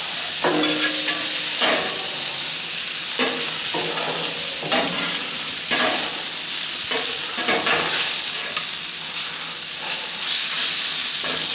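Sauerkraut with onions and diced ham frying on a hot plancha: a steady sizzle, with scraping strokes about once a second as it is stirred and turned on the plate.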